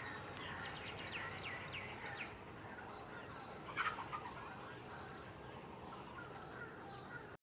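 Birds calling and chirping, with a quick run of short chirps early and one louder call about four seconds in, over a steady high hiss.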